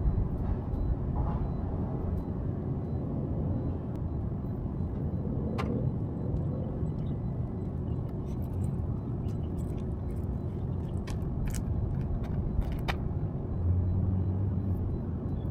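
Semi truck's diesel engine running steadily, a low rumble, with a few small clicks and taps from handling things in the cab in the second half.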